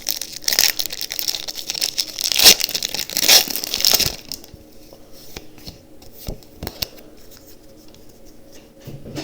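Foil wrapper of a Pokémon TCG booster pack being torn open and crinkled for about four seconds, then a few sparse soft clicks and rustles of handling.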